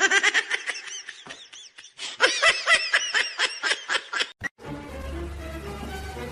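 Rapid high-pitched giggling, a long string of quick ha-ha notes that stops suddenly about four seconds in. A steady low hum follows.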